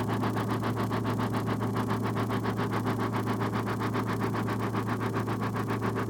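Engine running steadily at a constant speed, with an even exhaust beat of about six pulses a second and a low drone. It is heard before the muffler under test is fitted.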